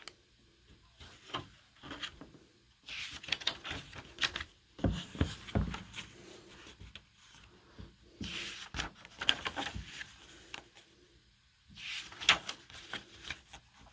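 Paper and book handling: irregular rustling, rubbing and scraping as a picture book is opened and its pages are turned, with a few light clicks and taps.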